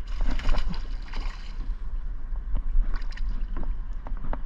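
Water splashing and lapping around a small fishing boat, with wind rumbling on the microphone and a few sharp clicks and splashes in the first second and again about three seconds in.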